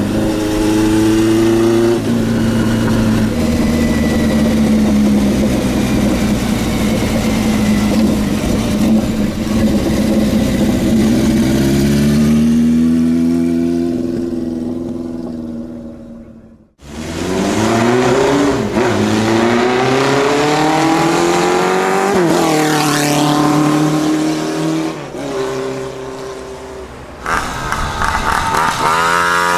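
Vintage motorcycle engines running and revving, the pitch rising and falling as bikes accelerate and slow. About two-thirds of the way in, the sound fades and cuts off abruptly, then comes back with an engine accelerating.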